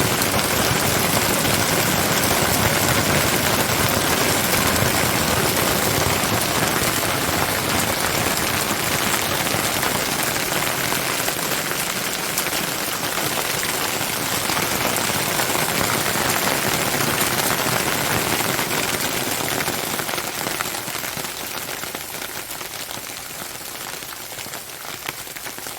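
Hail falling hard: a dense, steady clatter of many hailstones striking surfaces. It eases off near the end.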